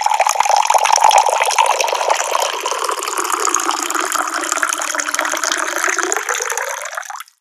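Tap water pouring in a steady splashing stream, cutting off abruptly near the end.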